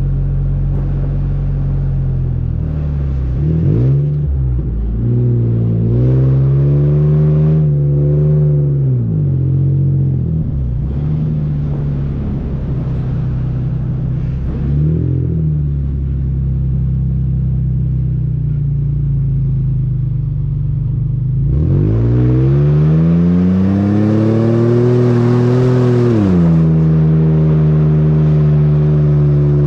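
Nissan Xterra's 4.0-litre VQ40DE V6 engine and exhaust pulling through soft sand. Its revs rise and fall several times and then hold a long climb for about five seconds before dropping back.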